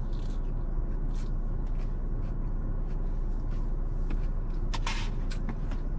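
Steady low rumble of a car idling, heard from inside the cabin, with a few faint crunching clicks of chewing, the clearest about five seconds in.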